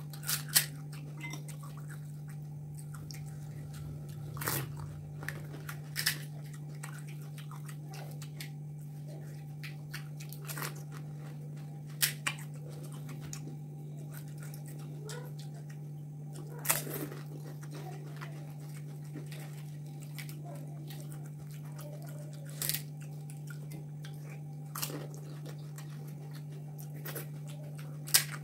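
Crisp hollow panipuri (golgappa) shells cracking and crunching as they are bitten and chewed, in sharp crunches every few seconds, over a steady low hum.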